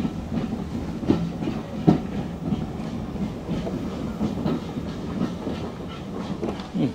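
Vintage railway carriage rolling slowly, with a steady low rumble and irregular sharp clacks of the wheels over rail joints.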